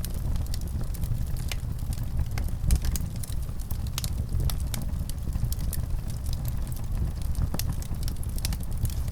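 Wood fire in a fireplace crackling, with sharp irregular pops over a low steady rumble.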